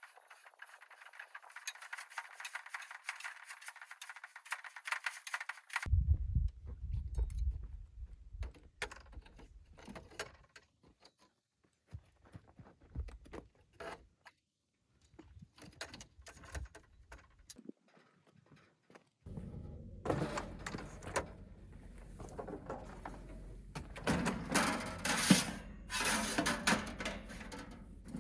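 Scattered clicks, knocks and scrapes of objects being handled, turning into denser, louder clatter over a low rumble in the last several seconds.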